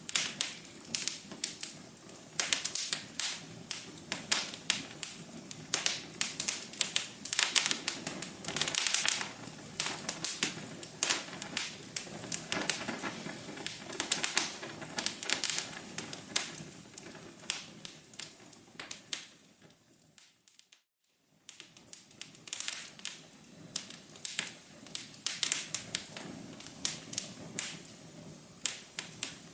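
Wood fire crackling in a fireplace: dense, irregular sharp pops and snaps over a soft rushing bed, with a faint steady hum underneath. About two-thirds of the way through the sound fades almost to silence for a moment, then comes back.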